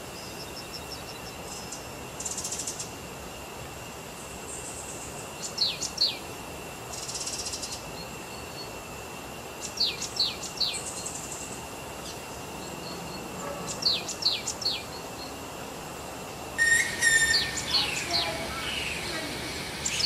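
Birds calling in short groups of three or four quick, high, down-slurred chirps every few seconds, over a steady high whine and brief buzzes. The calls become busier and louder near the end.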